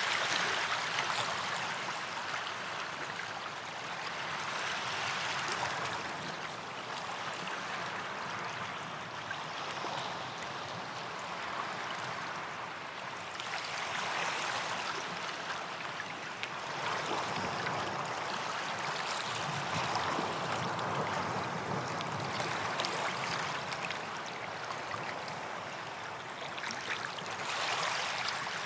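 Small waves washing onto a sandy beach and drawing back, with a soft swell of surf every few seconds.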